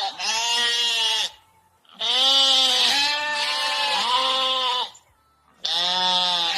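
Repeated long bleats from a goat or sheep, several drawn-out calls with short pauses between them.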